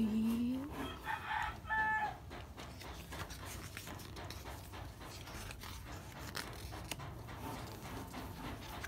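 Pages of a glossy photo book being handled and turned, with faint paper rustles and small taps. In the first two seconds a louder pitched call sounds, rising at first and then held briefly.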